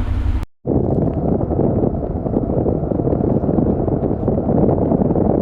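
Wind rushing over the camera microphone on a moving motorcycle, a steady low rumble of wind noise with the bike running underneath. It starts after a brief dropout about half a second in.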